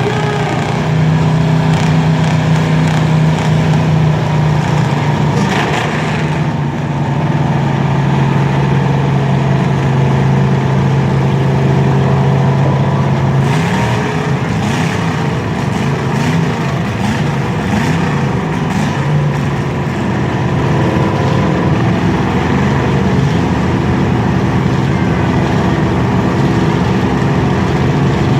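Several demolition derby cars' engines running loud and revving, with a few short bangs of impacts.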